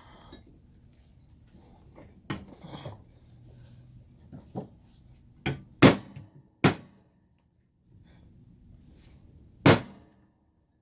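Hammer blows on a Leslie 122 amplifier's bent metal chassis as it is knocked back into shape: a few scattered strikes, the loudest three about six, seven and ten seconds in.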